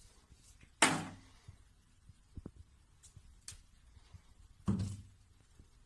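Two dull thumps about four seconds apart, each dying away quickly, with a few faint taps between them.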